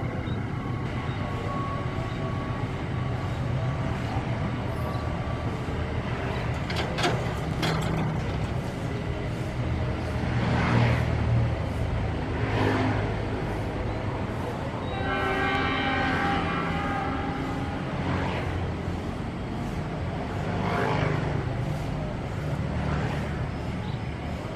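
A long-distance passenger train rumbles away over the rails, with a few sharp clacks about a third of the way in. Midway the locomotive's horn sounds once for about two seconds.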